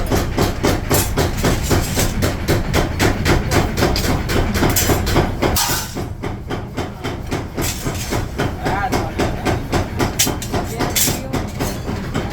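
Rapid, steady hammering on steel, about five blows a second. There is a louder burst of noise about five seconds in and a single sharp strike near eleven seconds.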